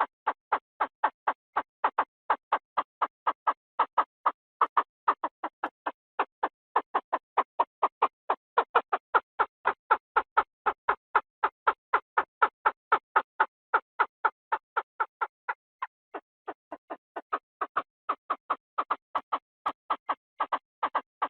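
Chinese francolin calling: a fast, even series of short notes, about three a second, which grows softer for a moment about sixteen seconds in.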